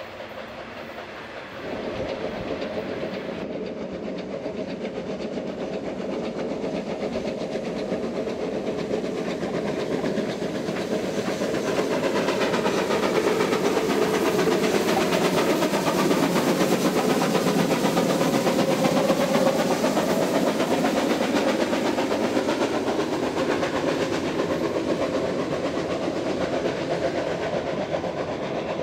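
Railway passenger coaches rolling past on the track: a steady rumble with wheel clatter. It jumps in level a couple of seconds in, grows louder for the first two-thirds, then slowly eases off.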